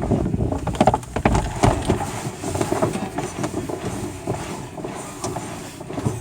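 Handling noise inside a glider cockpit: a few sharp clicks and knocks in the first second and a half, then uneven rustling.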